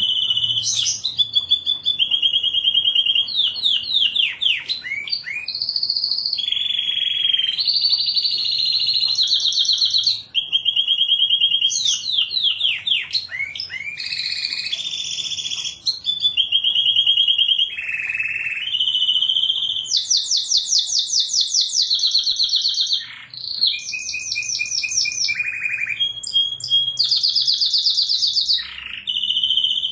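Domestic canary singing a continuous song: one rapid trill after another, each repeated note held for a second or two before it switches to a new trill, with a few quick downward-sweeping notes in between.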